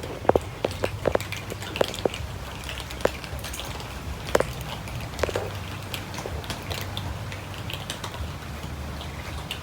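Several cats eating, with irregular crunching clicks as they chew, over a steady low hum.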